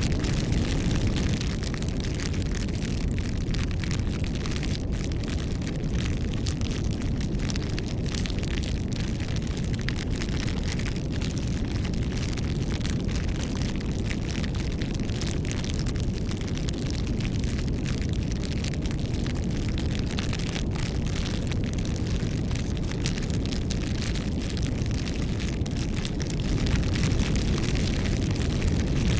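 Bonfire burning steadily: a low rushing roar of flame with frequent small wood crackles and pops throughout.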